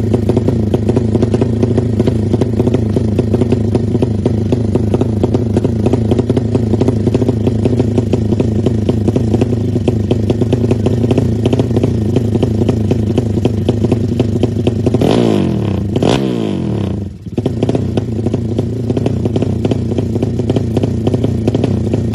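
Drag-racing motorcycle engine running steadily at a fast idle. About fifteen seconds in, the revs sweep down and the level briefly drops before the engine settles back to its steady run.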